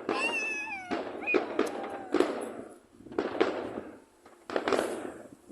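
Fireworks going off: about half a dozen sharp bangs at uneven intervals, each dying away quickly.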